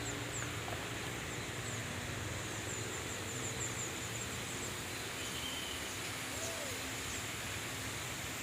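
Outdoor ambience in the forest: a steady rushing hiss with a rapid run of short, high chirps from small animals, and a brief whistled note about five seconds in.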